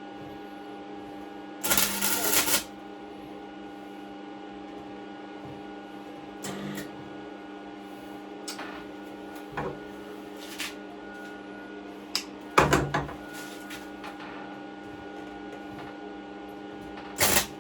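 MIG welder arc crackling in three short bursts of about a second each, laying tack welds on a steel pit bike frame, with a steady hum underneath between the bursts.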